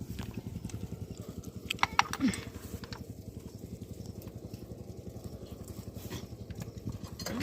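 Old single-cylinder diesel engine of a water pump set running steadily with a fast, even chugging beat, with a few sharp clicks about two seconds in.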